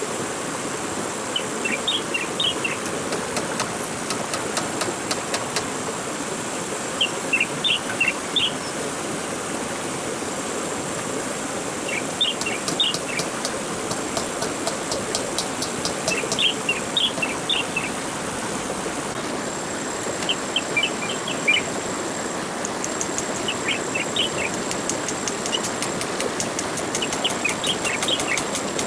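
Rainforest ambience: a bird repeating a short chirping phrase every four or five seconds over a high, thin insect buzz with rapid ticking that comes and goes, on a steady hiss.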